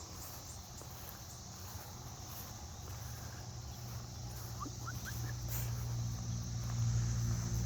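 Insects trilling in a steady high-pitched chorus, with a low droning tone swelling louder through the second half.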